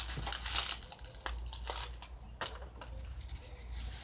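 A bird dust-bathing, scratching and flicking dry dirt, heard as bursts of crunchy rustling, a run of them to begin with and then several short separate ones.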